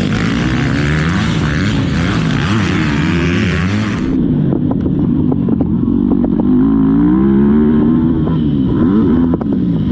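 Motocross dirt bike engine revving up and down over and over as it is ridden, its pitch climbing and dropping every second or so, with scattered sharp knocks after about four seconds.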